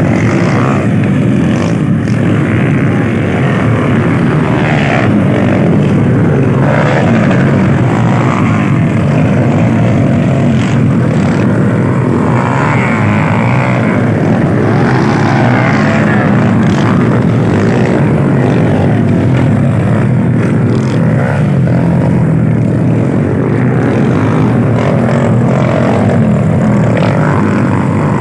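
Motocross bike engines running loud and steady, with no breaks.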